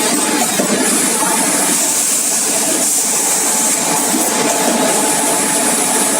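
Servo-driven busbar machine running, a steady mechanical noise with a strong hiss.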